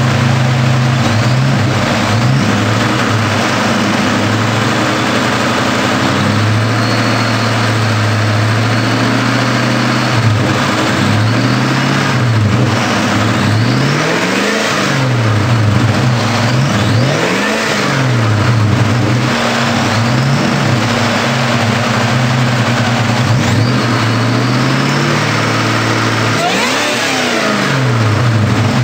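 Eaton-supercharged four-valve 4.6 V8 built on a forged Lincoln Mark 8 aluminum block, idling and then revved by hand at the throttle in a string of quick blips, each rising and falling, through the middle and again near the end.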